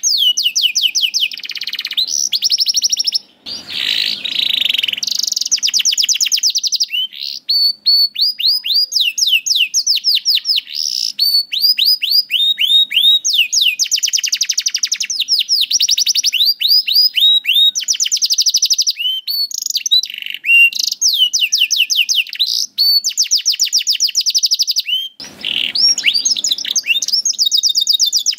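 Canary singing a long, near-unbroken song of rapid trills and rolls of quickly repeated high notes, with short breaks about three and seven seconds in. It is a tutor song for teaching young canaries to sing.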